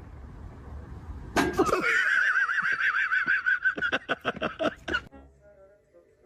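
An animal's long wavering call, held at one pitch for about three and a half seconds. Several sharp clicks come near its end, and it cuts off suddenly.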